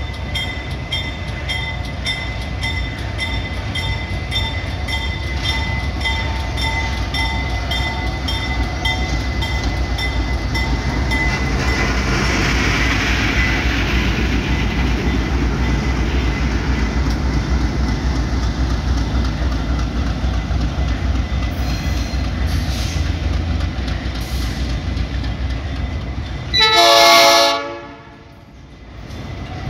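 A locomotive-hauled passenger train passing slowly, with a steady low rumble and a regular clicking of wheels over the rail joints in the first half. Near the end comes one loud train horn blast, about a second and a half long.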